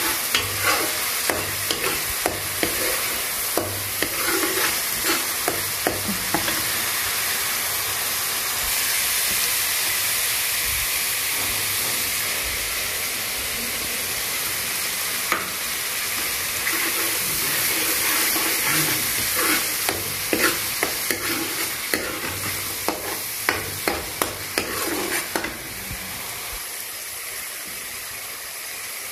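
Curry masala paste sizzling in hot oil in a frying pan while a steel spoon stirs it, scraping and clinking against the pan. The clinks come thickest in the second half.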